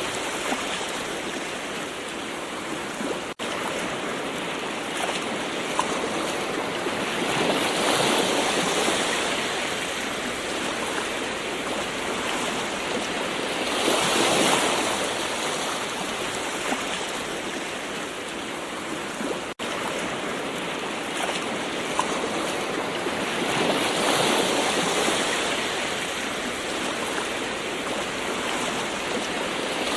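Gentle ocean waves washing ashore in a continuous hiss, swelling and falling back about every six seconds. Two very short dropouts break the sound, one early and one about two-thirds of the way through.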